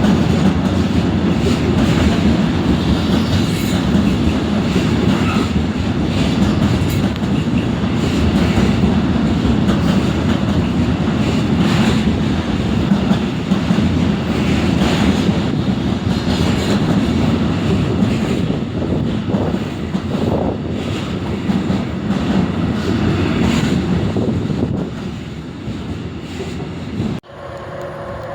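A train passing close by, its wheels rumbling and clattering over the rail joints. The sound eases in the last few seconds, then breaks off suddenly to a quieter steady hum with a few held tones.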